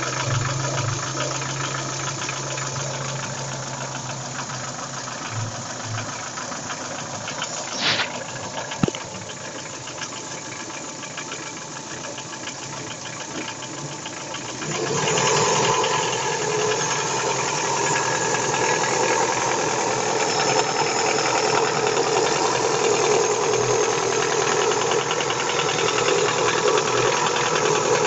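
Daewoo Nexia 16-valve four-cylinder engine running with a rhythmic knock from the piston and connecting-rod group, a fault the owner cured by replacing that group. There is a sharp click about 8 seconds in and another about 9 seconds in, and about 15 seconds in the engine gets louder and stays louder.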